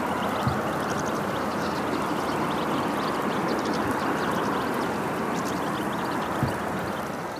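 Flock of European goldfinches twittering, many short high chirps overlapping, over a steady rushing noise that begins to fade near the end.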